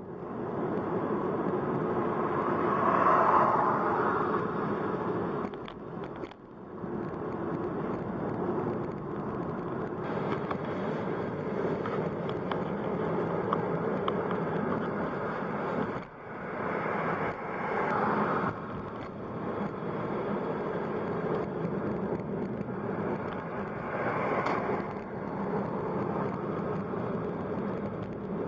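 A car being driven, with a steady mix of road and engine noise. The noise drops out briefly about six seconds in and again around sixteen seconds, and swells a few times in between.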